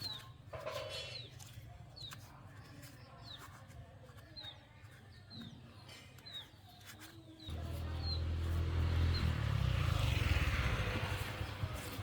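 Chicks peeping: short, high, falling peeps repeated every half second or so over a low hum. About seven and a half seconds in, a louder steady noise with a low rumble starts suddenly and covers the peeps.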